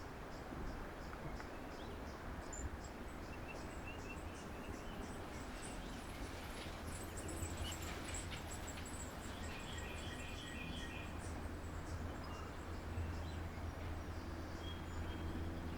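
Faint, scattered small-bird chirps and call notes, a little cluster about ten seconds in, over a steady low background rumble.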